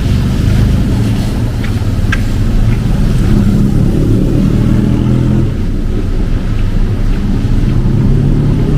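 Road traffic close by: vehicle engines running in a steady low rumble.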